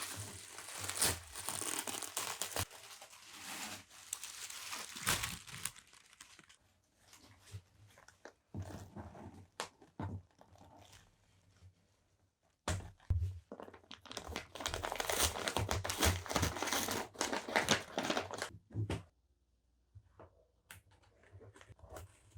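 Packaging being opened by hand: paper or plastic wrapping crinkling and tearing in two long stretches, with scattered taps and clicks between them and after.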